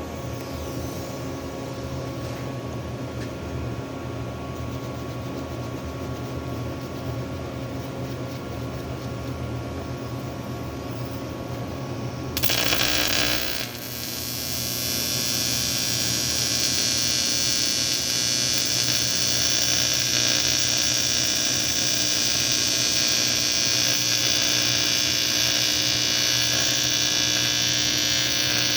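Electric welding arc buzzing steadily on a cast aluminium AFR cylinder head. About twelve seconds in comes a short loud hiss, then the buzz turns louder and brighter, with a high-pitched edge.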